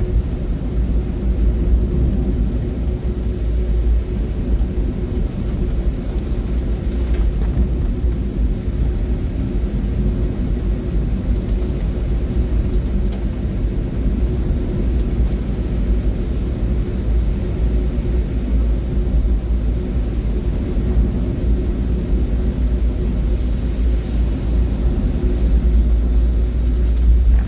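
Steady low rumble of a running vehicle, with a faint steady hum above it and no sudden changes.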